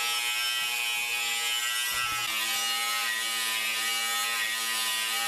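Electric grinder running steadily at speed, cleaning rust and paint off steel, its pitch sagging briefly about two seconds in as it bears on the metal.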